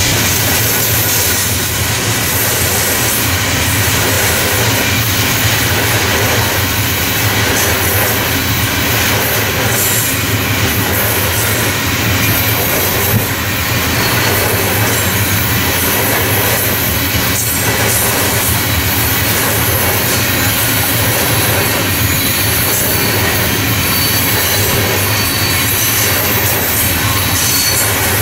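Train rolling past: steady loud noise of wheels on rail, with a faint high squeal of the wheels from about halfway on.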